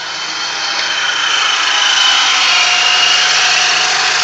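Supercharged car engine running, getting louder over the first two seconds, with a steady high whine over the engine noise from the ProCharger supercharger.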